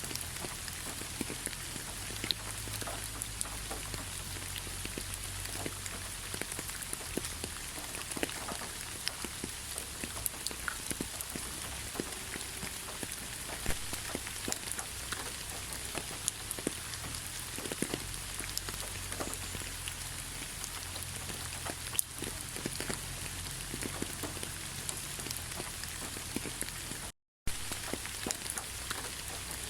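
Steady rain falling, with many individual drops ticking through the hiss. The sound cuts out to silence for a moment near the end, then resumes.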